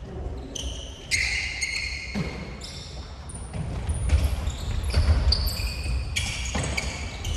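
Court shoes squeaking on a sports hall floor during futsal play: many short, high squeaks overlapping one another over a low rumble of running feet.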